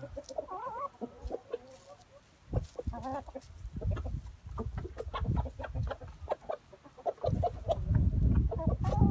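Chickens clucking, many short calls one after another, with a low rumbling noise coming in about seven seconds in.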